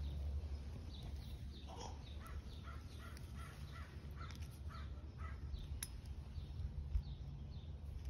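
Birds calling: a run of short repeated calls from about two to five seconds in, with higher chirps scattered throughout, over a steady low rumble.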